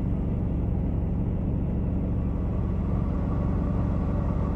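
Steady low drone of a semi truck's diesel engine heard inside the cab, with a faint higher whine joining about three seconds in.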